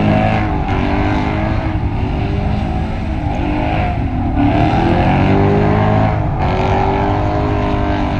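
A vehicle engine running hard, its pitch rising and falling as it revs, with short dips in pitch at several points.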